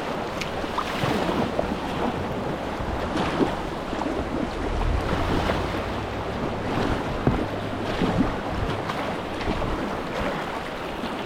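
Whitewater river water rushing and splashing around a kayak, with wind buffeting the microphone and a low rumble through the middle of the stretch.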